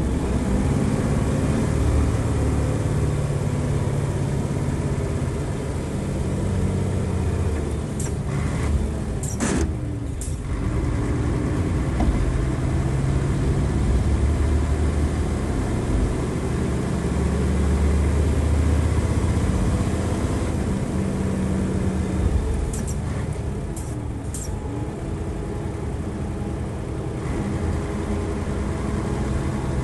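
Nissan Diesel FE92TA bus's turbocharged diesel engine running hard under way, its pitch rising and falling as the revs change. Short sharp hisses of air come twice, about a third of the way in and again a little past two thirds.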